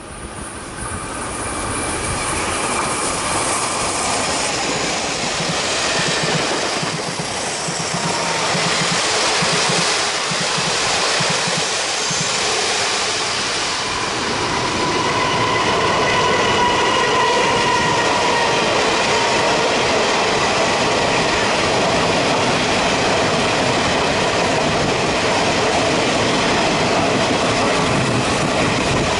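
A Taiwan Railways electric-locomotive-hauled passenger train passes close by. Its wheels clatter on the rails, and steady high squealing tones stand out from about halfway through.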